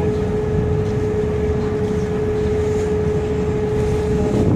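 Sightseeing boat's engine running steadily, heard on board: a low rumble with a constant hum.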